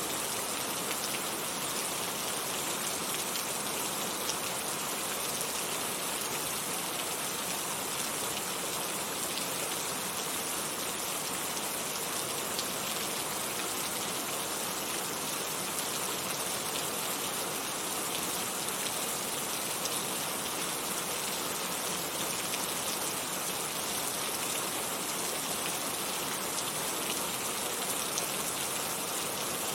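Heavy rain falling steadily, a dense, even hiss of many drops with scattered individual drop ticks.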